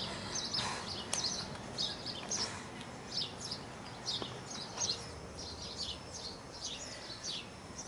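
Small birds chirping, short high calls repeating every half second or so, over faint outdoor background noise.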